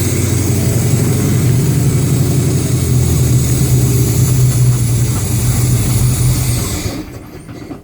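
1969 Chrysler 318 cubic-inch V8 running steadily at idle while warming up after a cold start. It stops about seven seconds in, its sound dying away over a moment.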